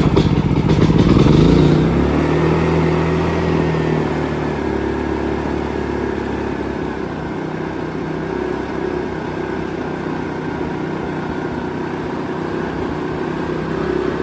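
Small engine of an inverter generator running just after starting: it speeds up over the first couple of seconds, then settles into a steady run.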